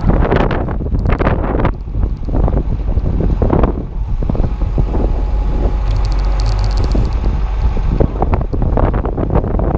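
Strong wind buffeting a GoPro Hero 2's microphone: a loud, uneven low rumble that rises and falls with the gusts.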